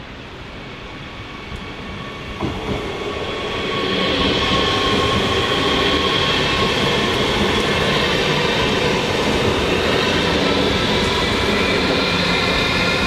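A train approaching, growing louder over the first four seconds, with a couple of knocks about two and a half seconds in. It then runs loud and steady, with several high whining tones over the rumble.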